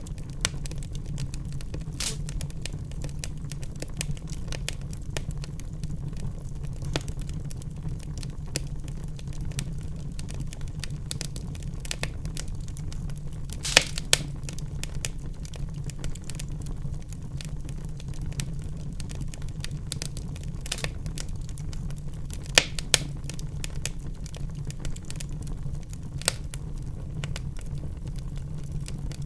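Wood fire burning in a fireplace, with a steady low rumble and frequent irregular crackles and pops. The loudest sharp pops come about 14 seconds in and twice near 23 seconds.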